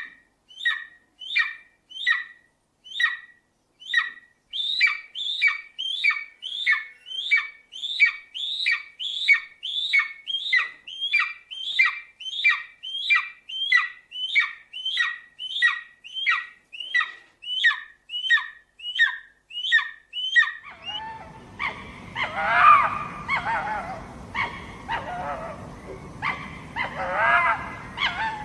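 A bird's high chirp, falling in pitch, repeated about one and a half times a second for some twenty seconds. It stops near the end and a different recording follows: honking animal calls over a steady background hiss.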